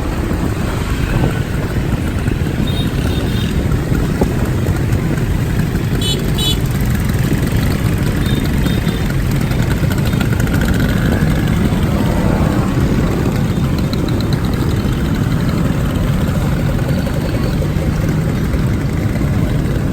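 A motorcycle riding through traffic: a steady, heavy rumble of engine and road noise, with a few short high-pitched beeps scattered through it.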